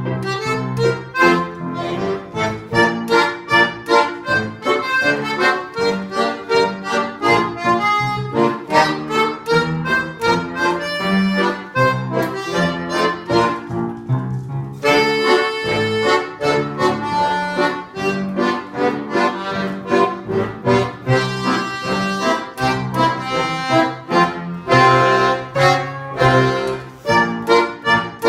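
Accordion music: a lively tune played over a steady rhythmic accompaniment of low notes and chords, with a brief lighter passage about halfway through.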